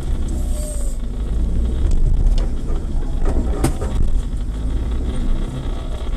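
Off-road 4x4 vehicle engine running, a steady low rumble with scattered knocks and clatters over it.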